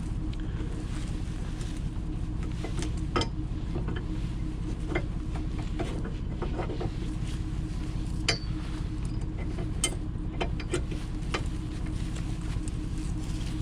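A vehicle's engine idling steadily, with scattered sharp clicks and knocks over it.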